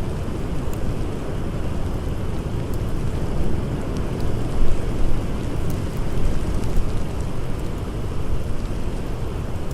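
Blizzard wind blowing steadily with a low rumble, with a few faint crackles from a campfire.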